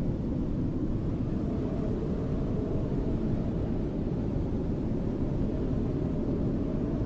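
Snowstorm wind blowing steadily, a deep, even rush with most of its sound low and little hiss.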